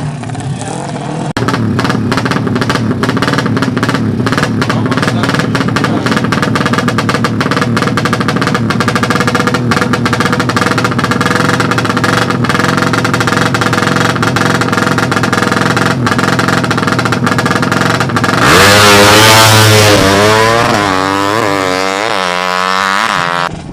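Four-stroke 200cc underbone drag motorcycle held at steady high revs with a dense crackle. About 18 seconds in it launches loudly and accelerates hard up through the gears, the pitch climbing and dropping at each shift about five times as it pulls away.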